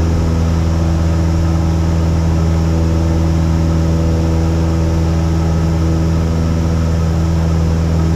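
Steady drone of a Cessna 172's piston engine and propeller in flight, heard inside the cabin.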